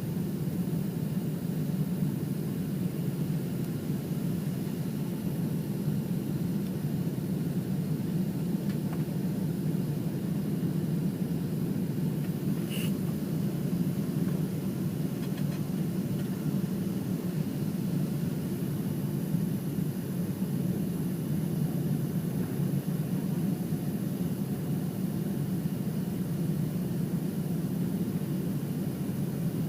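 Steady roar of a Boeing 767 airliner's engines and airflow, heard from inside the cabin, with a single short click about thirteen seconds in.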